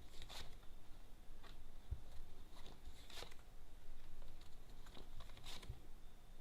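Tarot cards being handled and turned over: about five soft, faint flicks and slides of card stock.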